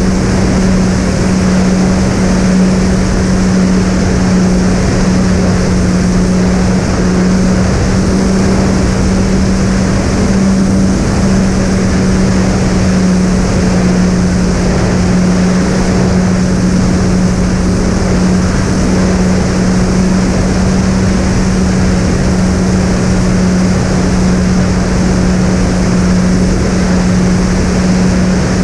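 Twin electric motors and propellers of a fixed-wing model plane in flight: a steady, unchanging hum at cruise throttle under a loud rush of wind.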